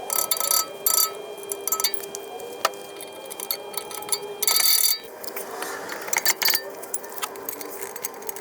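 Metal tools and parts clinking and rattling in short bursts during car suspension reassembly, with the longest burst about four and a half seconds in, over a faint steady hum.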